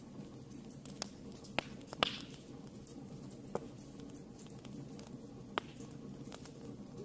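Fire burning in a fireplace: a low steady rumble with sharp crackles and pops scattered through it, the loudest about two seconds in, followed by a brief hiss.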